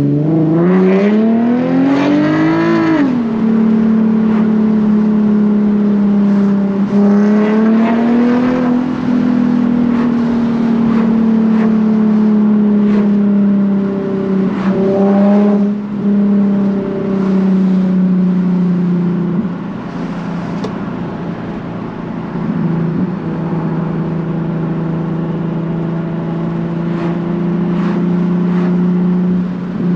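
Nissan 370Z's 3.7-litre V6 through a Tomei titanium catback exhaust, pulling hard with the revs rising steeply for about three seconds, then dropping sharply at an upshift. After a shorter climb it settles to a steady cruise, its note easing slowly lower.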